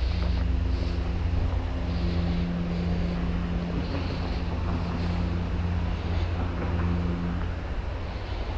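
Engine running with a steady low rumble and a droning hum, over wind noise on the microphone. The hum drops away about a second before the end.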